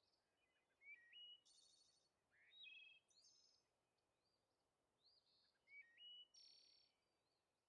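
Faint songbirds singing: short varied phrases of high chirped notes and quick trills, a new phrase every second or so, over a soft background hiss.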